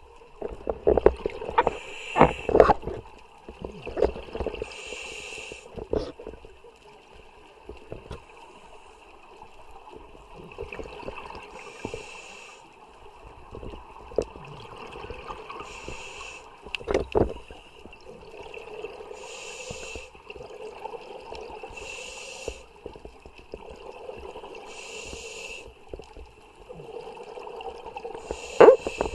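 Underwater recording of a diver breathing: a hiss recurs every three to four seconds over bubbling and gurgling water, with scattered sharp knocks.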